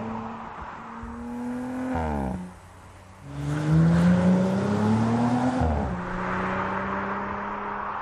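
2018 Audi RS4 Avant's 2.9-litre twin-turbo V6 accelerating through the gears, its pitch climbing and dropping sharply at upshifts about two seconds in and again near six seconds, with a brief quieter lull around three seconds.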